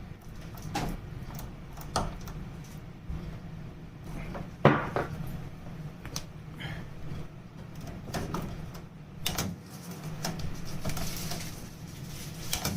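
An old doorknob and its door being worked: a series of separate clicks and knocks of the latch and door, the loudest about five seconds in.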